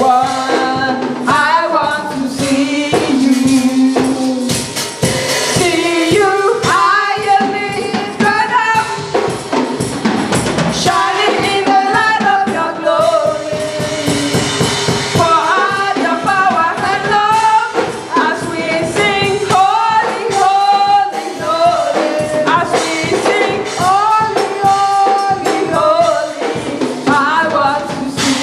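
Gospel choir singing a worship song with musical accompaniment and a tambourine keeping time.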